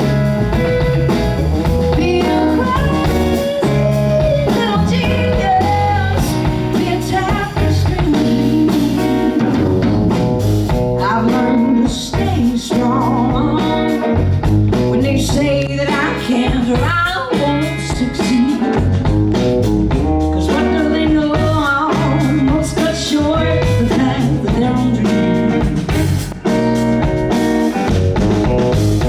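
Live blues band playing: electric guitar, bass and drums under a lead line that bends up and down in pitch.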